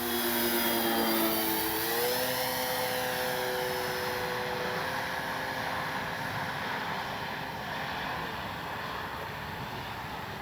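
Electric RC model plane in flight: its Spektrum Avian brushless outrunner and 13x6.5 propeller give a steady drone that rises in pitch about two seconds in, then fades as the plane draws away.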